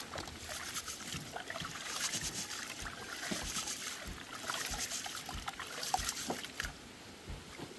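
Rice being washed by hand in a pot of water for its second rinse: irregular sloshing and trickling of water as the grains are swirled.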